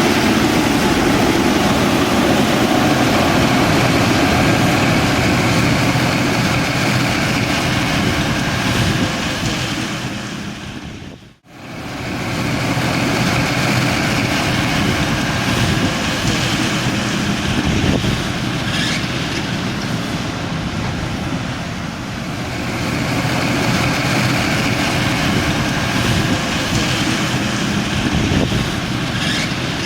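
Caterpillar 120 motor grader's diesel engine running steadily as the machine works. The sound fades out and straight back in a little over ten seconds in.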